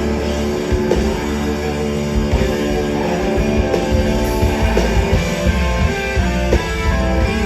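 Live rock band playing an instrumental passage: distorted electric guitars holding chords over bass and a drum kit.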